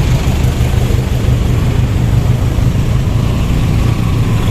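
Motorcycle engine running steadily under way, a loud low rumble with rushing wind noise over it.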